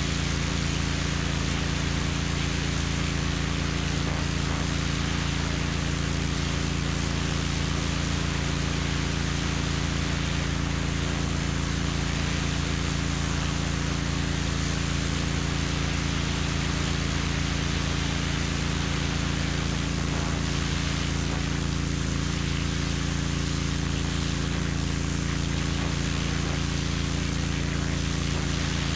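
Pressure washer running steadily: an engine's constant drone under the hiss of water blasting from a turbo nozzle.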